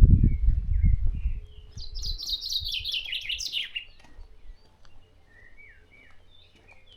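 A songbird sings one rapid trill that falls steadily in pitch over about two seconds, followed by a few faint short calls from other birds. A low rumble fills the first second and a half.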